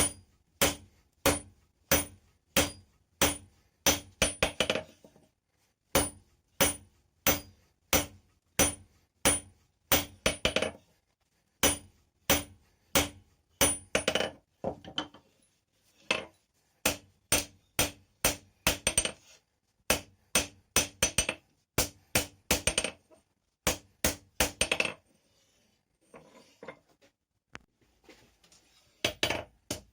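Hand hammer striking hot rebar on an anvil in a steady rhythm of about two blows a second, each with a short metallic ring. Several quicker runs of lighter taps come in between, and the blows stop for a couple of seconds near the end before resuming.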